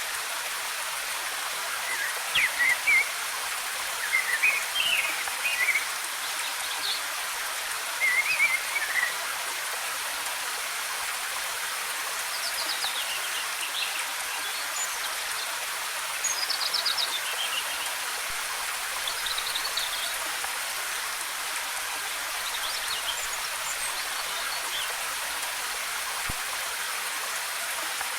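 Steady rush of a waterfall, with small birds singing short chirping phrases over it every few seconds.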